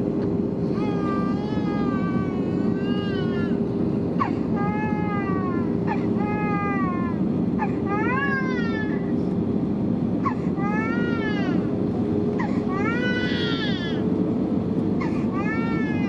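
An infant crying in repeated wailing cries, each about a second long and arching up and down in pitch, over the steady rumble and hum of an Airbus A320neo's cabin in flight.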